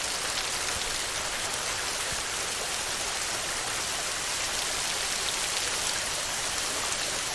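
Steady heavy rain: a dense, unbroken patter of drops.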